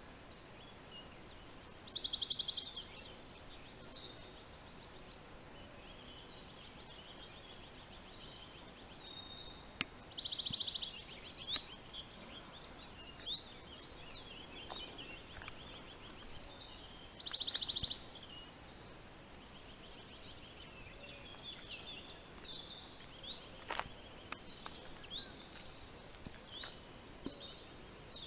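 Wild birds singing: a short, fast, dry trill repeated three times, roughly every seven or eight seconds, among scattered quick high chirps from other birds, over a faint steady hiss.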